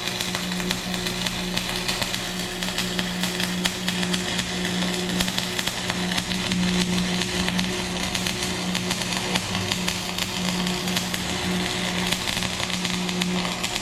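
Stick-welding arc crackling steadily as a bead is run, over a constant low hum.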